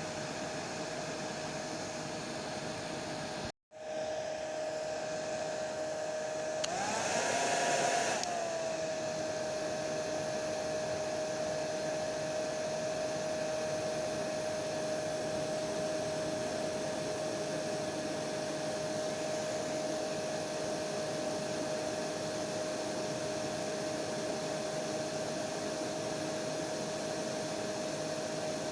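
Electric hair dryer running steadily, a rushing blow with a constant whine. It cuts out for a split second a few seconds in, then comes back, and a few seconds later it briefly swells louder and brighter, the whine rising a little before settling back to the steady run.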